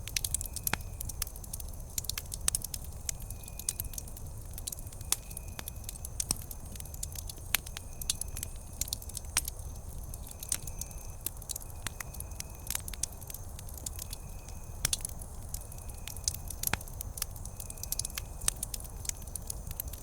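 Wood campfire crackling, with frequent sharp pops over a low steady rumble. A faint short high chirp repeats about once a second.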